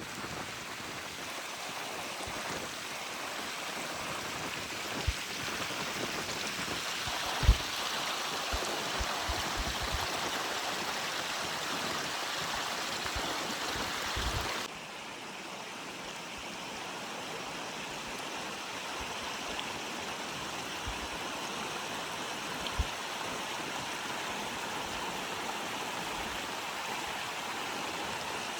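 Steady rush of a running stream. The level drops abruptly about halfway through, with a few brief low thumps scattered through, the loudest about a third of the way in.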